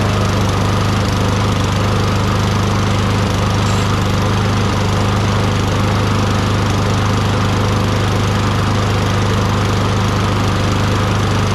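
Tecumseh 6.5 hp single-cylinder engine on a Toro Recycler push mower running steadily at constant speed, loud and even. It runs on its own after priming, a sign that the carburetor is decently clean and the primer circuit works.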